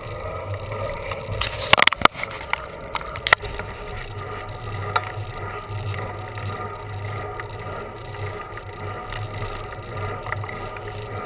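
A bicycle on the road: steady road and wind noise with a low hum, broken by sharp rattles and clicks, the loudest cluster about two seconds in and another just over three seconds in.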